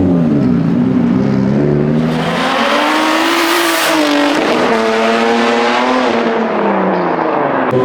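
Big-turbo Nissan 350Z's V6 engine revving: a few quick blips, then climbing to high revs, dipping briefly about four seconds in and climbing again, before falling away near the end.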